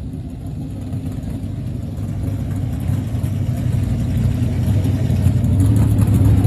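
Car engine running, its sound growing steadily louder throughout, as from a car drawing nearer.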